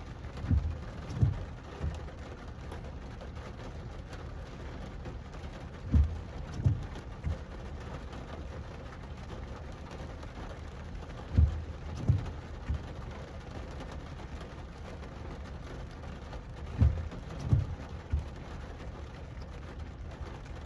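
Steady rain hissing, with a short low sound coming in sets of three about every five and a half seconds, four times over.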